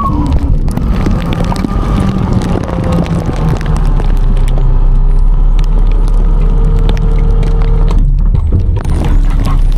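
Autocar-Heil Freedom front-load garbage truck at work: the diesel engine runs steadily under hydraulic load with a droning hum, with scattered clanks and knocks from the packing gear.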